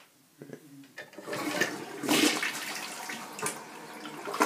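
Dual-flush toilet on full flush: water starts rushing into the bowl about a second in, is loudest around two seconds in, and keeps draining and swirling.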